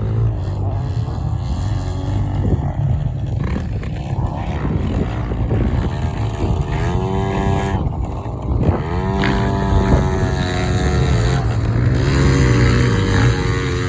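Small two-stroke motocross bike engine, a Yamaha PW50's 49cc single, revving up and down as it is ridden round the track. The pitch climbs several times, about halfway through, again a couple of seconds later and near the end.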